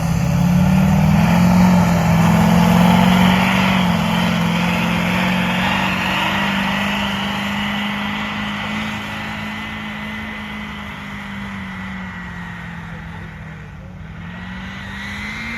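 Duramax diesel pickup truck pulling a sled at full throttle: the engine revs up in the first second, holds high, then slowly falls in pitch and gets quieter.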